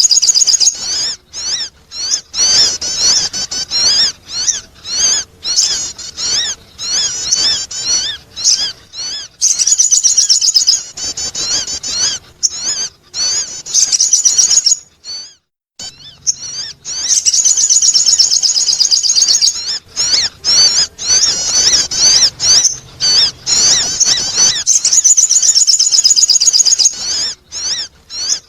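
Sogon bird calling: rapid, high-pitched twittering chirps and trills in bursts of a second or two with short gaps, and a brief pause around the middle. It is the kind of call that bird-trappers and keepers play to attract other birds.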